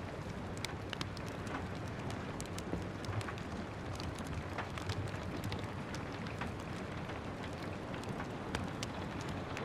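Steady rain hiss mixed with a crackling wood fire: a constant even wash of noise with many small, irregular sharp pops and snaps scattered through it.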